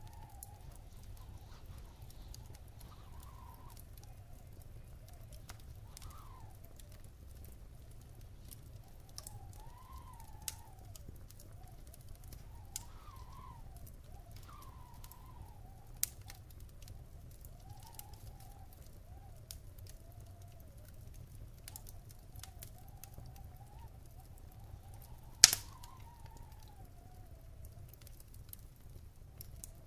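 Wood fire burning in a fireplace: a steady low rumble with scattered sharp crackles and one loud pop about 25 seconds in. A faint wavering whistle rises and falls underneath.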